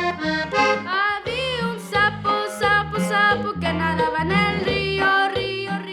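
Norteño music: an accordion playing a quick melody over an alternating bass line.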